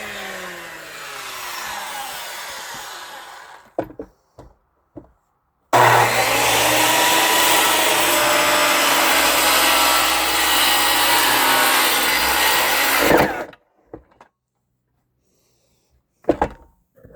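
Power saw spinning down with its pitch falling, then a few clicks. About six seconds in it starts abruptly and runs loudly and steadily through wood for about seven seconds, then stops.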